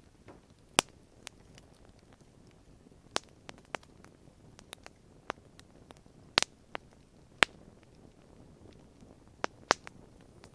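Wood campfire crackling: irregular sharp snaps and pops of burning wood, a dozen or so scattered through, over a faint low hiss.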